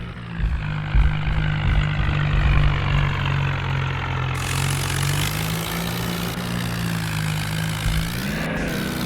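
Powertrac tractor's diesel engine running steadily, its pitch rising briefly about eight seconds in.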